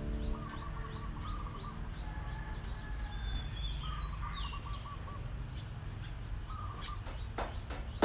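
Wild birds chirping and calling: short sweeping notes and quick trilled phrases, over a low steady background rumble. A few sharp clicks come near the end.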